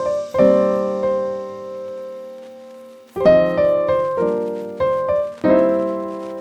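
Solo piano music. A chord struck about half a second in rings out for nearly three seconds, then chords follow roughly every half second, each left to sustain and fade.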